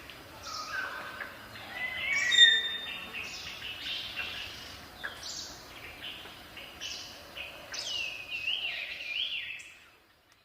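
Birds chirping and singing, many short varied notes overlapping, over faint outdoor background noise; it fades out near the end.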